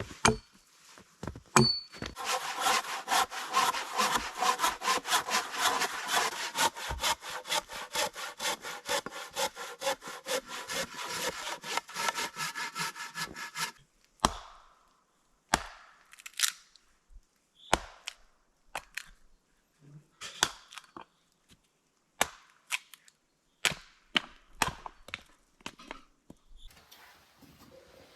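Wood being cut with a hand saw: rapid, even back-and-forth strokes for about twelve seconds, then the sawing stops and is followed by scattered separate knocks and clicks.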